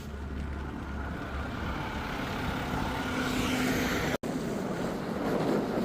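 A vehicle engine running steadily, heard through outdoor noise; the sound drops out for an instant about four seconds in.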